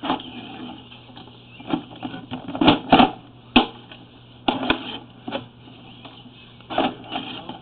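Sewer inspection camera being pushed down the line: irregular knocks and clicks, a cluster of the loudest ones near the middle, over a steady low electrical hum.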